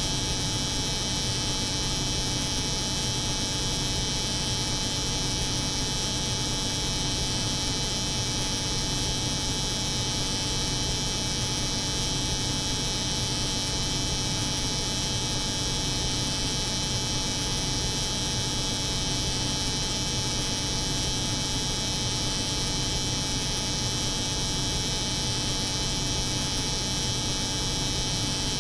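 A steady, unchanging drone: the low hum of a cold room's refrigeration unit layered with the high buzz of an electric hair clipper running continuously.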